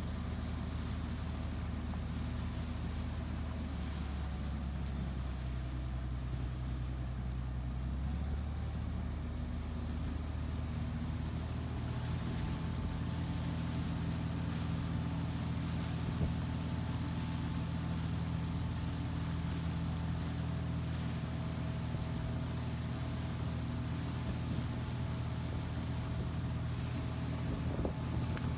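Boat engine running steadily, a low drone whose pitch shifts about eight seconds in and again about twelve seconds in.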